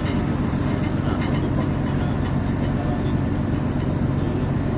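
Steady low drone of a ferry's engines while under way, holding one even pitch.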